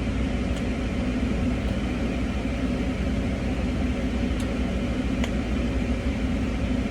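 Car engine idling, heard from inside the cabin as a steady low hum, with a couple of faint clicks partway through.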